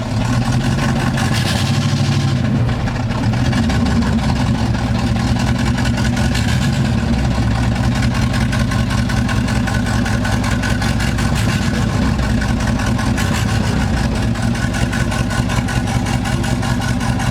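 Pickup truck engine running steadily at low speed while the truck tows a log on a log arch.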